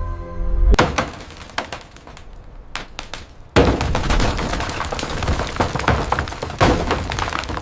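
A drone of music cuts off under a second in. Scattered knocks and clatter of breaking material follow, and from about three and a half seconds there is a dense crunching, scraping noise of demolition work, with a sharp crack near the end.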